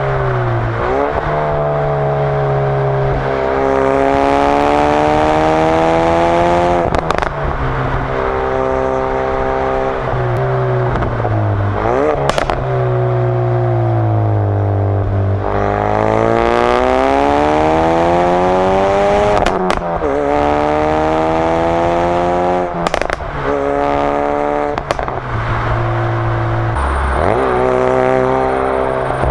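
Ford Focus RS's 2.3-litre turbocharged four-cylinder exhaust under hard driving. The note climbs in pitch under acceleration and drops at each lift-off or gear change, several times over, with a few sharp pops and cracks from the exhaust.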